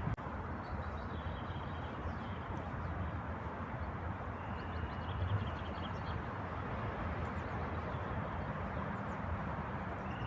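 Steady outdoor background noise, like wind or distant traffic, with a few short, high bird chirps and trills over it, one about a second and a half in and a longer run about halfway through.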